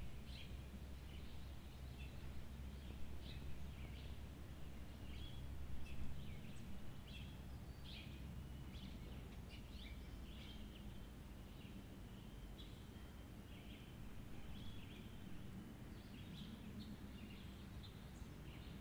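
Outdoor ambience of birds chirping, many short calls coming one after another, over a faint low rumble that eases off about six seconds in.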